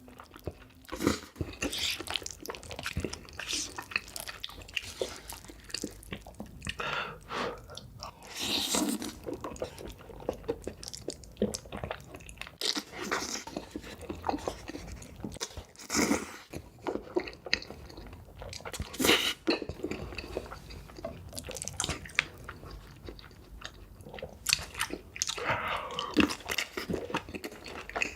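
Close-miked eating of ramen noodles: chewing, biting and wet mouth sounds in an irregular stream of short smacks and clicks.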